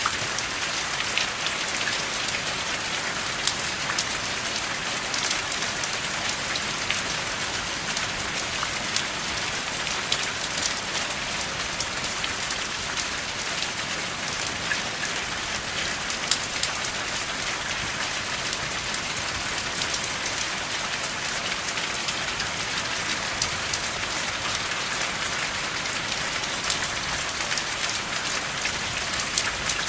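Steady rain without thunder: a dense, even hiss of rainfall with many sharp individual drop impacts scattered through it.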